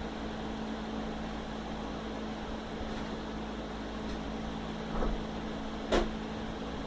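Steady machine hum with a low, even tone, broken by two sharp knocks about five and six seconds in, the second the louder.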